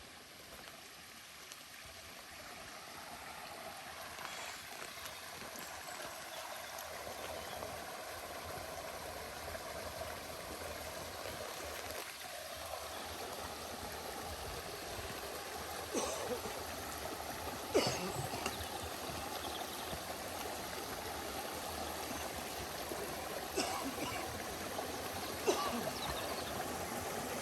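Forest stream running over stones, growing steadily louder as it is approached, with a few brief knocks in the second half.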